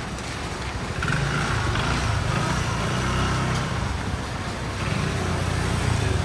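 A motor vehicle's engine running as it passes close by, louder from about a second in and rising again near the end.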